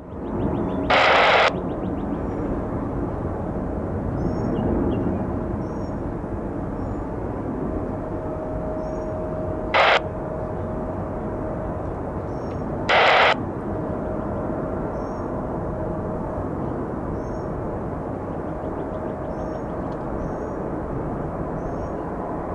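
Virgin Atlantic Airbus A330-300 jet airliner on its landing approach, its engine noise a steady rush. Three short loud bursts of air-band radio static cut in about a second in, near ten seconds and near thirteen seconds, with faint bird chirps.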